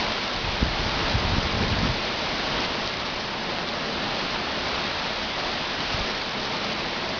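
Steady rain falling, a dense even hiss, with a short low rumble around one to two seconds in.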